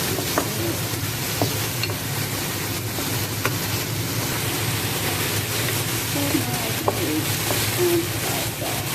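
Carrot and green peas sizzling in hot oil in a wok while being stirred, with a few light clicks and scrapes of the utensil against the wok.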